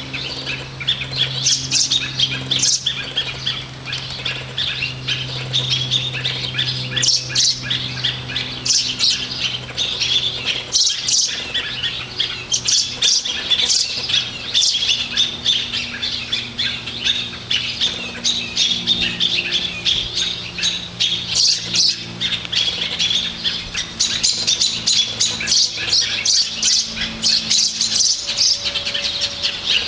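A baby bird squawking harshly and rapidly, call after call without a break. A steady low hum runs underneath.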